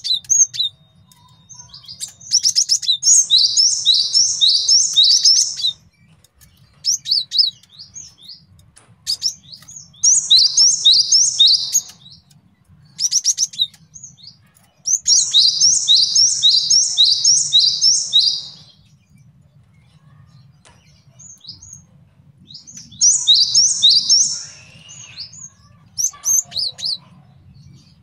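Male cinereous tit (gelatik batu) singing: four bouts of a quickly repeated high two-note phrase, each bout a few seconds long, with scattered short chirps in the pauses between. A faint low hum runs underneath.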